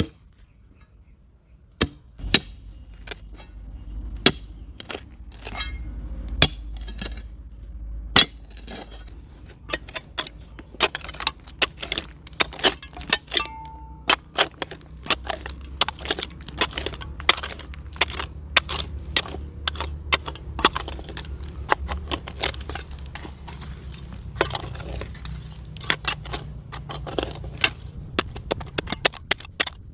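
Dry wood crackling and snapping in quick, irregular sharp cracks, sparse at first and much denser from about ten seconds in, over a low steady rumble.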